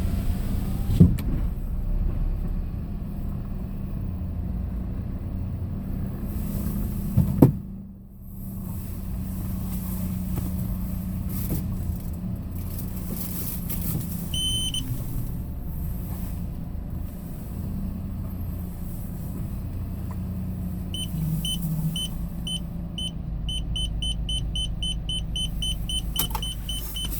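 Cab of a Hyundai Porter II box truck on the move: steady low engine and road hum, with a sharp knock about a second in and another about seven seconds in. From about twenty-one seconds, the turn-signal indicator ticks with a short high tone about twice a second, faster near the end.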